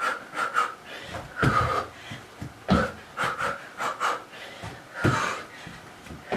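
A woman panting hard in quick, short breaths while doing an interval of punches and sprawls, with a few dull thumps about 1.5, 3 and 5 seconds in.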